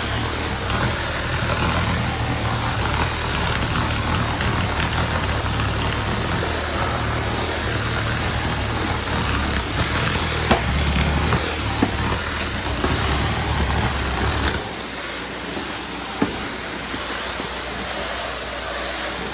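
Tile-and-grout extraction equipment running: a steady low machine hum under a constant hiss of spray and vacuum suction, with a few sharp clicks. About 15 seconds in the low hum drops away, leaving mostly the hiss.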